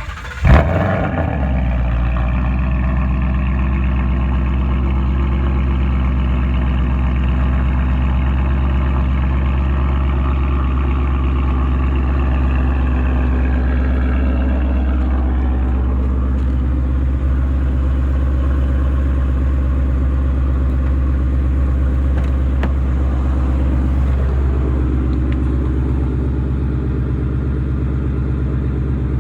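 A 2018 Ford Mustang GT's 5.0 V8 cranks and fires about half a second in with a loud bark through an X-pipe and Roush mufflers, then settles into a steady idle whose speed eases down partway through.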